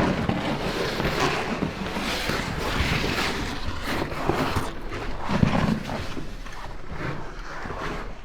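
Irregular rustling and scraping of clothing and a backpack rubbing against the narrow sandstone walls of a slot canyon as a person squeezes through.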